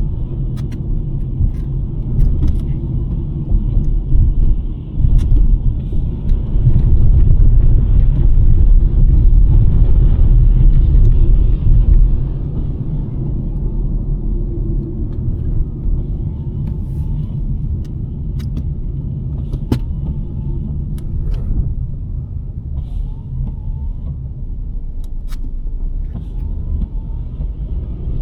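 2023 Nissan Sentra driving, a low road-and-engine rumble that swells louder for several seconds from about four to twelve seconds in, then settles back. Scattered faint clicks sound over it.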